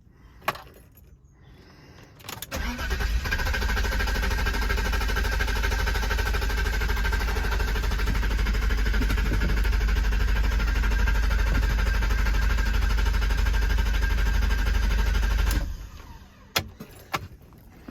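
BMW E32 730i engine being cranked at length on the starter, a steady pulsing churn lasting about thirteen seconds that cuts off suddenly, with single clicks before and after. It is hard starting after sitting undriven for a month with a flat battery.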